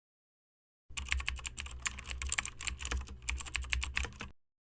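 Rapid, irregular clicking over a low steady hum, lasting about three and a half seconds. It starts abruptly about a second in and cuts off shortly before the end.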